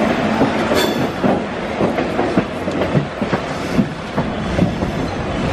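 Electric local train running through a station yard, its wheels clattering over rail joints and points in irregular knocks and clanks over a steady running rumble, heard from an open coach doorway.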